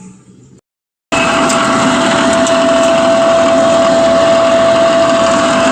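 Electric blower fan running steadily at full speed: a loud, even rush of air with a constant whine. It starts abruptly about a second in, after a short silence.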